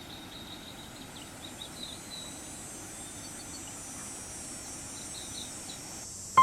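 Mountain-stream ambience: the steady rush of stream water, with insects trilling at a steady high pitch and short bird chirps over the first couple of seconds.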